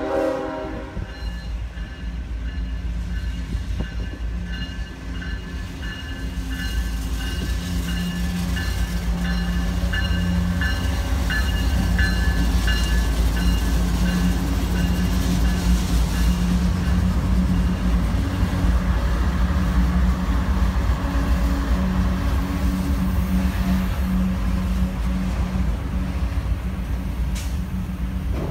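Diesel locomotive and rail cars of a slow-moving ballast train rumbling past, the engine drone growing louder over the first dozen seconds and then holding steady. A run of regular high ticks rings over it for the first half.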